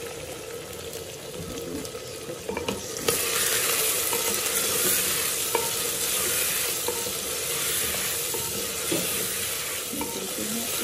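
Chicken pieces sizzling in hot oil in a clay handi while a wooden spoon stirs them, with a few light knocks. The sizzle grows louder about three seconds in as the stirring turns the pieces.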